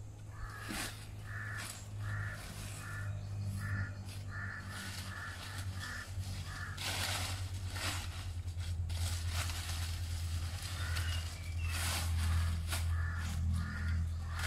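A bird calling in quick runs of short repeated calls, about two or three a second, over a steady low hum; the calls stop in the middle and start again near the end.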